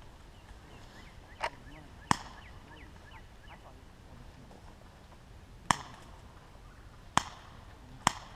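Airsoft gun shots: five sharp single cracks at uneven intervals, the last three coming closer together.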